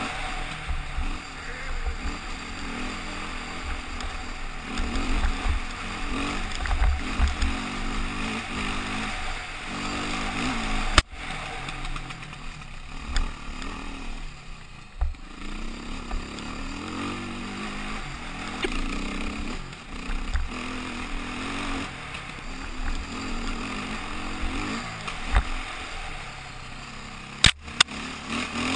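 KTM motorcycle engine running on the move, its revs rising and falling, with wind buffeting the microphone. A sharp knock about eleven seconds in and a couple more near the end.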